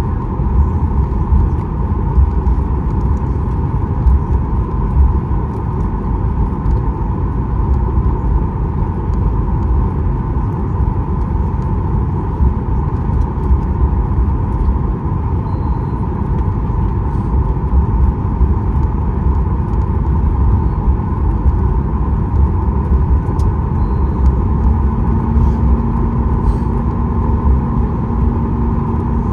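Cabin noise of a Boeing 737 MAX 8 on the ground: a steady low rumble of the CFM LEAP-1B engines at idle and the rolling airframe, as the aircraft taxis. A steady low hum joins in near the end.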